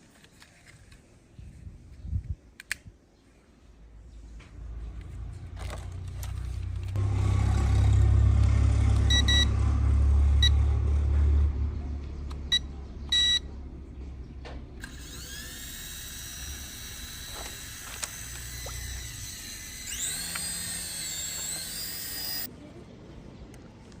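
Small electric motors of a 3.5-channel toy RC helicopter (Skyhawk) whining: the whine rises in pitch about halfway through, wavers, then cuts off suddenly near the end. Before it comes a loud low rumble with a few short high beeps.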